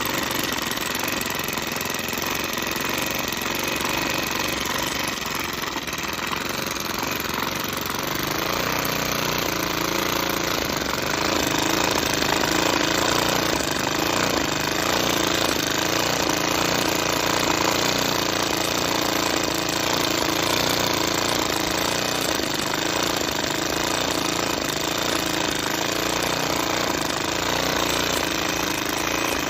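Miniature 2.2 cc steam engine running with a rapid, even mechanical beat, a little louder from about ten seconds in.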